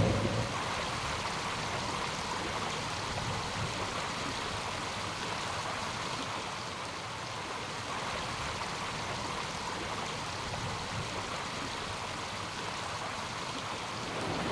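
Steady rushing of running water, without engine noise.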